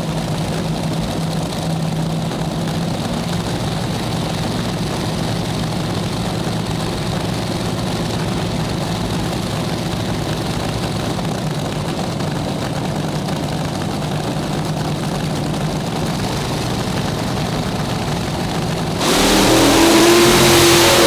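Nitromethane-burning nostalgia top fuel dragster engines idling steadily at the starting line. About nineteen seconds in they launch at full throttle and the sound jumps much louder, with the engine pitch rising.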